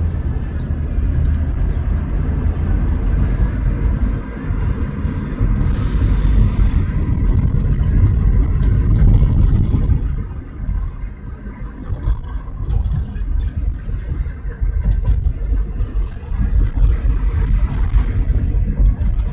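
Road and engine rumble inside a moving car's cabin, growing louder for a few seconds in the middle and then easing off.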